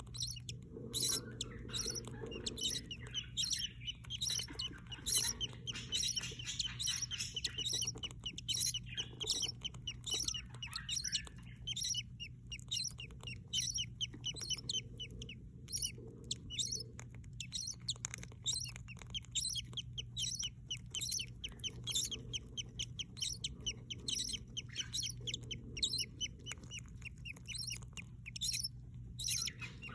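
Budgies chirping rapidly and continuously, many short high calls in quick succession, over a steady low hum.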